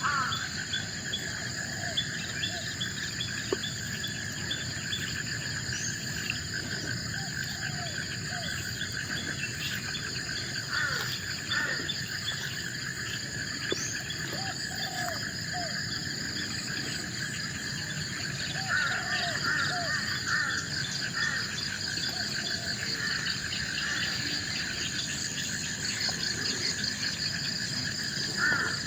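Forest insect chorus, crickets and similar insects trilling steadily at several high pitches, with scattered short bird calls over it.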